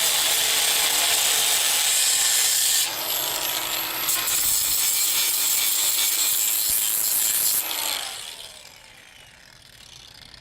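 A power tool cutting with a harsh, hissing sound; about three seconds in the sound of the cut changes, and near eight seconds the tool is switched off and winds down with a falling whine.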